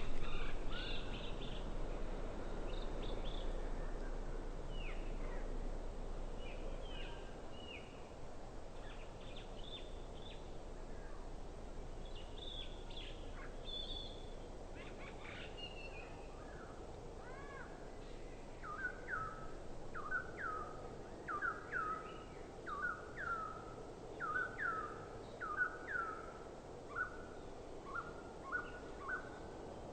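Birds calling: assorted short chirps and whistles, then over the second half a steady run of short, hooked, repeated notes, a little more than one a second.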